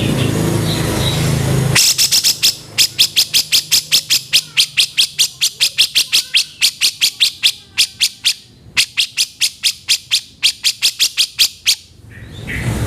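Cucak jenggot (grey-cheeked bulbul) giving its harsh call, a fast run of rough, evenly spaced notes at about four a second, with one short break partway through. A short rough noise comes before the calls begin.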